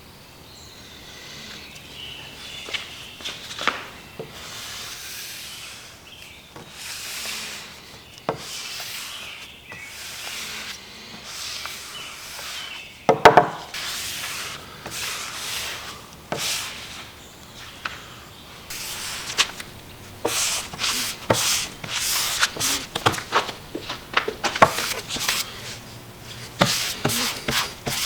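Hand work on a walnut board: strokes of rubbing or sanding across the wood, one knock about 13 seconds in, then a quick run of light taps and clicks in the last third.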